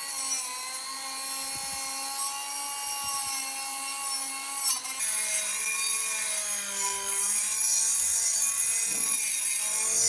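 A small electric power tool running against a workpiece, its motor whine wavering slightly in pitch with the load over a rough rubbing hiss; the pitch shifts about five seconds in.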